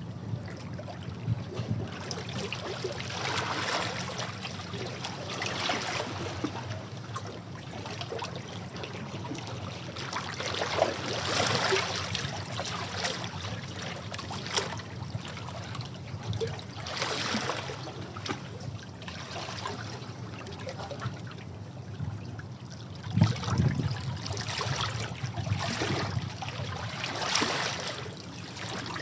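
Sea waves washing against rocks, each wave swelling and draining back every few seconds over a steady wash of water.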